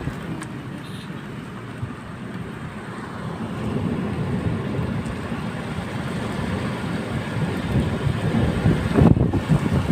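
Steady hiss of rain falling, with wind buffeting the microphone; it grows louder about three seconds in and gusts near the end.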